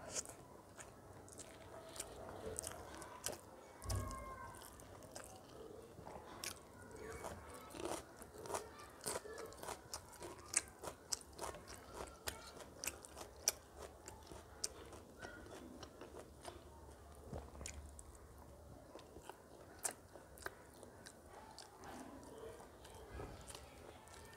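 Close-miked mouth sounds of someone eating rice and chicken curry by hand: wet chewing with many sharp lip smacks and crunches. A low thump about four seconds in.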